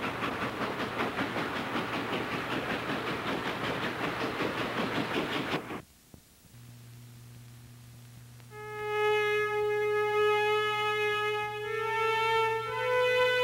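Dubbed train sound effect, a fast rhythmic rushing of a running train, cuts off suddenly about six seconds in. A low hum follows, then music of long held notes fades in, its chord shifting twice near the end.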